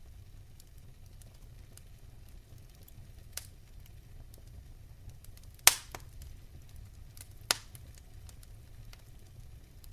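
Wood fire burning in a fireplace: a low steady rumble with small crackles, and a few sharp pops, the loudest a little over halfway through and another about two seconds later.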